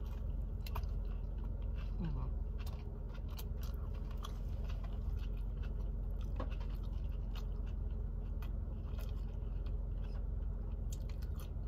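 A person biting into and chewing a vegan turkey club sub sandwich, heard close up as scattered small clicks over a steady low hum.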